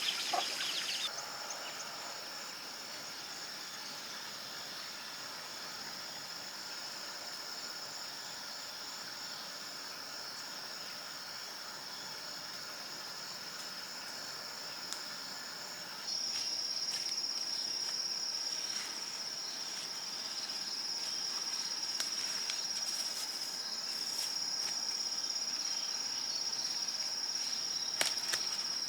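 Insect chorus: a steady, high-pitched drone of crickets or cicadas that jumps abruptly louder about halfway through. A sharp click near the end.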